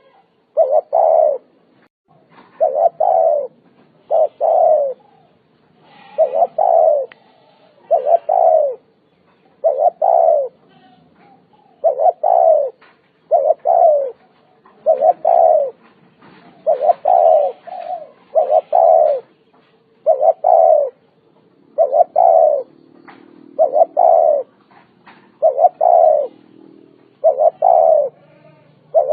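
Spotted dove cooing: short, low coos in pairs, falling slightly in pitch and repeated in a steady rhythm about every two seconds.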